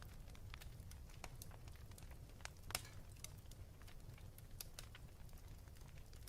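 Wood fire in a fireplace crackling faintly, with scattered irregular pops and one sharper pop a little before the middle, over a low steady rumble.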